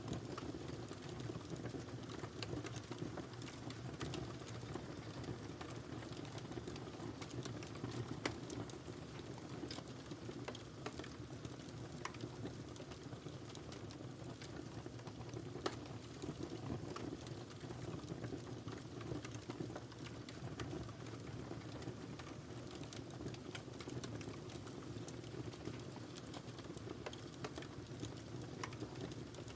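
Wood fire burning in a fireplace: a steady low hiss and rumble of flames with irregular sharp crackles and pops scattered throughout.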